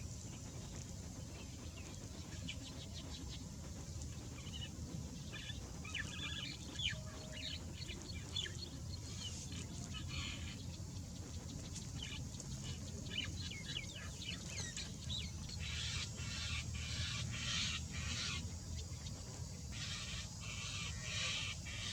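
Birds calling in quick runs of short, high chirps that come in clusters and grow busier in the second half, over a steady low rumble.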